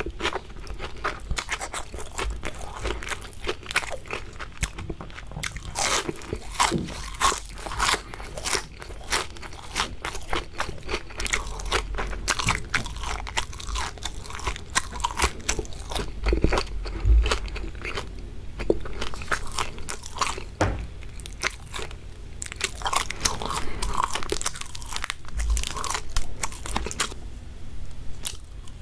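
Close-miked biting and chewing of crispy fried shrimp: a steady run of crackling crunches.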